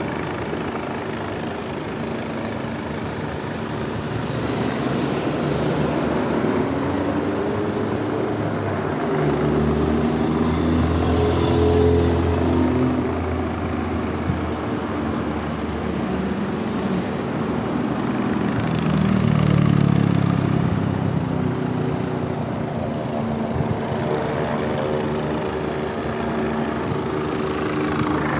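Street traffic, with two vehicles driving past loudly about ten and twenty seconds in. A helicopter engine and rotor run steadily behind it.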